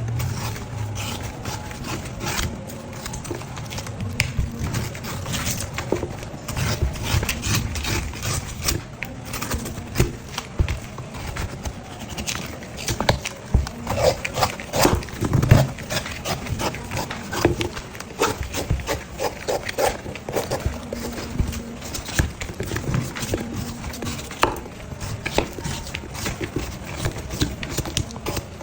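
Blade of a hand-forged coconut tool working a coconut, peeling the meat from the shell with an irregular run of knocks, clicks and scraping.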